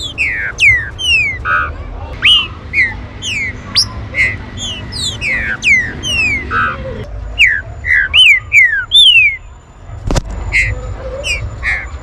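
Green-winged saltators (trinca-ferro) calling: a dense run of short, sharp whistled notes, most sliding downward, several birds overlapping. A single thump about ten seconds in.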